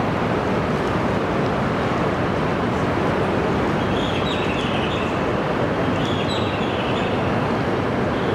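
E926 East-i inspection Shinkansen standing at the platform with its on-board equipment running, a steady rushing hum. A few brief high chirping tones come about four and six seconds in.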